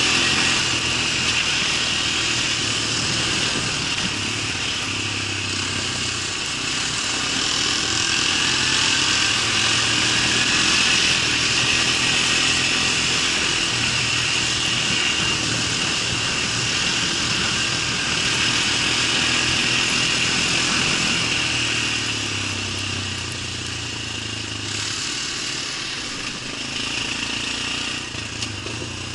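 A small engine running steadily, easing off somewhat over the last few seconds.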